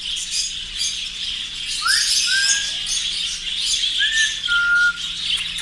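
Many caged birds, parrots among them, chirping and chattering continuously at a shop, with two clear whistled notes about two and four seconds in, each sliding up and then held.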